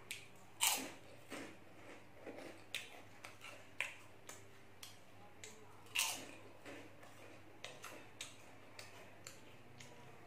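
Crunchy tube-shaped puffed snacks being bitten and chewed, a run of sharp crunches with the two loudest about half a second in and about six seconds in.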